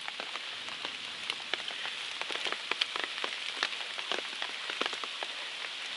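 Steady rain falling, a constant hiss with many sharp individual drops ticking close by at an irregular pace.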